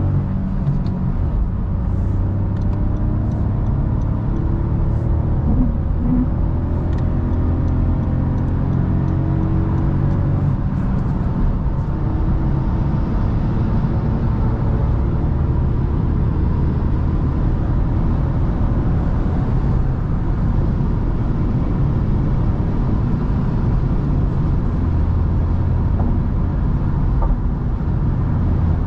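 Honda Civic 1.0 VTEC Turbo engine heard from inside the cabin, pulling through the gears of its six-speed manual gearbox as the car accelerates onto a motorway, its tone rising over the first ten seconds or so. It then settles into steady high-speed cruising, with engine drone, tyre and wind noise.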